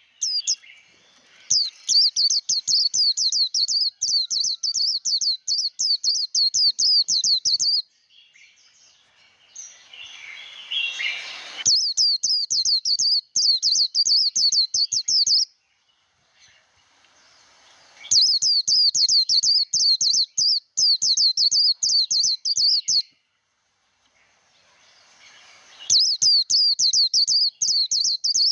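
White-eye singing its fast 'líu' warbling song: long runs of rapid, high chirps, four stretches of several seconds each with short pauses between. A softer rushing noise swells in one of the pauses, about ten seconds in.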